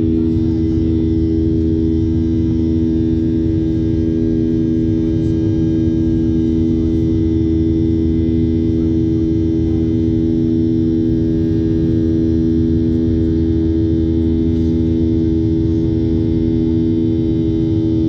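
Steady cabin noise inside a Boeing 737-800: the CFM56-7B turbofan engines holding a constant droning hum over a heavy low rumble.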